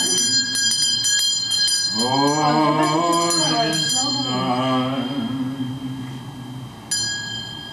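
Small bells jingling. Then, about two seconds in, a long drawn-out sliding voice lasting about three seconds, and a bell tone ringing out again just before the end.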